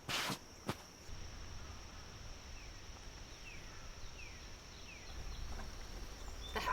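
Outdoor woodland ambience: a steady high insect drone with four short, falling bird chirps. It starts about a second in, after a brief rustle and a click.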